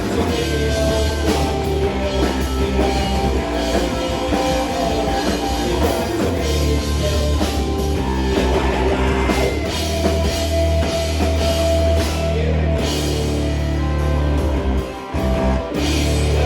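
Live rock band playing: drum kit with crashing cymbals, electric guitars and a sustained bass line. The band drops out for a moment near the end, then comes back in.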